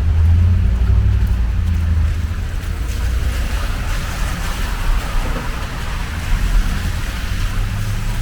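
Street traffic on wet pavement: a vehicle's low rumble, strongest in the first two seconds, then the spreading hiss of tyres on the wet road.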